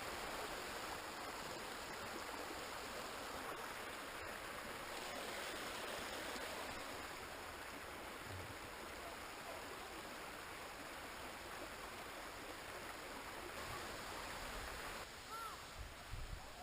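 Steady rush of flowing water from a woodland stream or small waterfall, an even hiss with no break.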